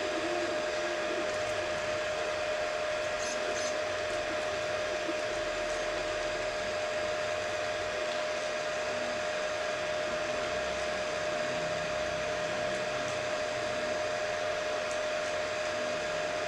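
HICTOP S250 3D printer running a print, its fans giving a steady whir with one constant tone and a few faint ticks.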